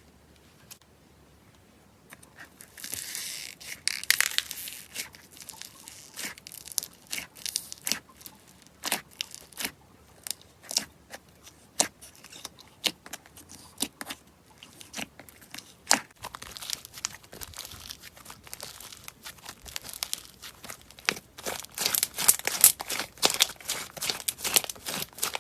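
Slime being squeezed and pressed by hand, giving irregular sharp crackles, clicks and pops. It starts after about two seconds of quiet, and the crackling comes in thicker runs a few seconds in and again near the end.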